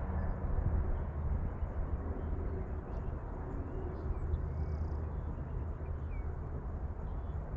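Outdoor ambience: a steady low rumble with a few faint, high bird chirps.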